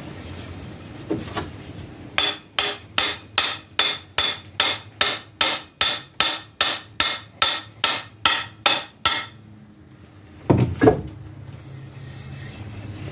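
A hammer striking metal in a quick, even series of about eighteen blows, roughly two and a half a second, each with a brief metallic ring. Two heavier, duller thuds follow near the end.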